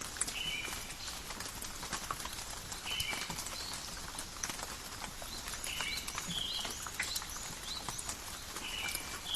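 Steady rain falling in a forest, with many sharp drops ticking irregularly through the patter. A short, high two-note animal call repeats about every three seconds.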